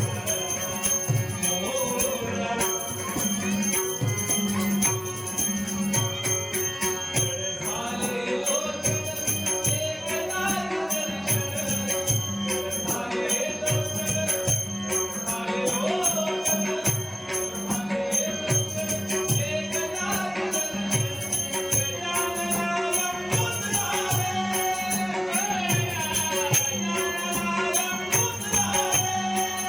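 A male voice singing a devotional Ganesh stavan in Dashavatar style, over a steady drum beat, held harmonium-like drone notes and jingling small hand cymbals.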